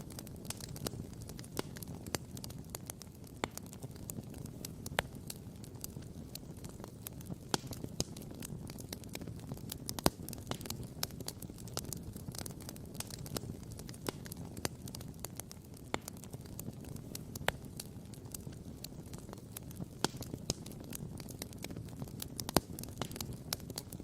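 Wood fire crackling, with frequent irregular sharp pops, the loudest about ten seconds in, over a steady low rumble.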